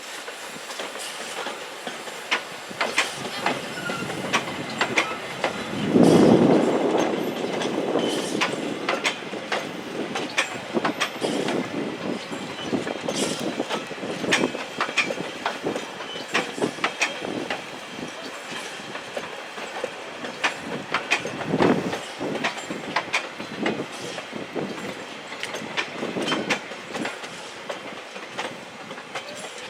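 Train running on the rails: a steady rattle of wheels and cars with many sharp clicks and knocks, louder for a moment about six seconds in.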